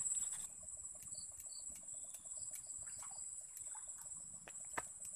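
Steady, high-pitched insect chorus, of the cricket kind, ringing without a break, with a few faint ticks and one sharp click near the end.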